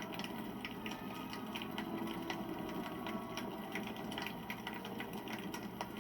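Wood campfire crackling, with frequent small irregular pops and snaps over a steady low rush of flames.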